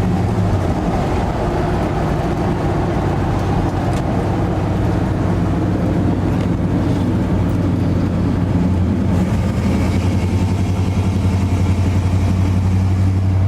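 1970 GMC pickup's V8 idling steadily through its newly installed exhaust, the downpipes running into new mufflers. The owner says it is not running quite right.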